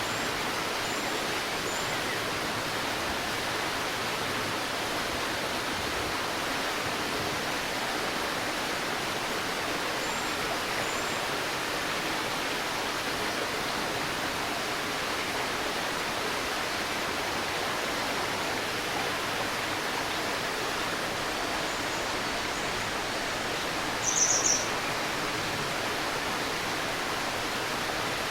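A river babbling steadily over stones, with faint high bird chirps a few times and a short, louder burst of quick high bird notes near the end.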